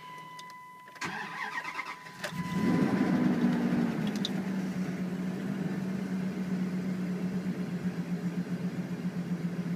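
Dodge Durango cold start: a dashboard chime, a short crank of the starter, then the engine catches about two and a half seconds in, flares up briefly and settles into a steady idle.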